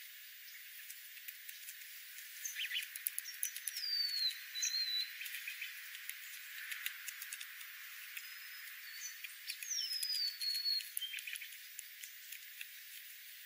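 Birds calling: short whistled notes that fall in pitch twice, among many quick clicking chips and chatter.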